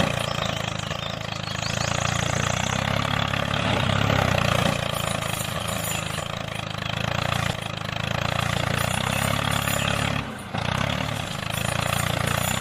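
Small motor of a DIY mini tractor running steadily, with a brief dip in level about ten seconds in.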